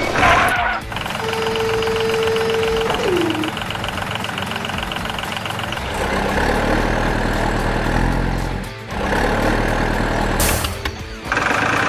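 Heavy-vehicle engine sounds with a steady tone about a second in that drops in pitch near three seconds, and a short hiss near the end.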